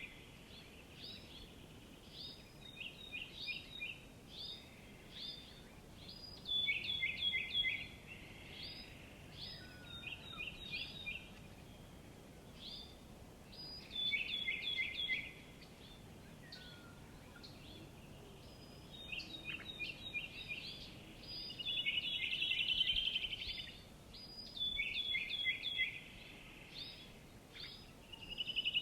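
Small songbirds singing: short phrases of quick high chirps repeating every couple of seconds, with a buzzy trill a little before the end, over a faint steady hiss.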